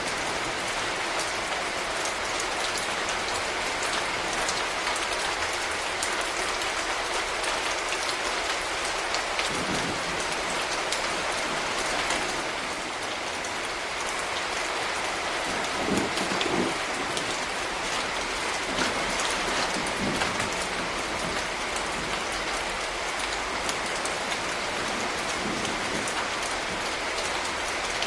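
Steady rain falling on a street, a dense patter of small drop ticks over an even hiss, with a few louder, deeper drops around the middle.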